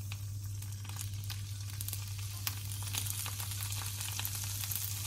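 Canned mushrooms dropped into hot olive oil in a frying pan, sizzling and crackling, the crackles growing denser as more mushrooms go in. A steady low hum runs underneath.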